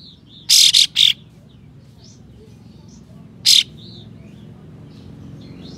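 Olive-winged bulbul (kapas tembak) singing harsh, loud 'tembakan' shot-like bursts: three in quick succession about half a second in and a fourth about three and a half seconds in. Softer short chirps fall between them, over a low background rumble.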